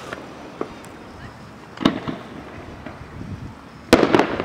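Fireworks going off: a sharp bang just under two seconds in and a louder one near the end, each trailing off in a rumbling echo, with small faint pops between.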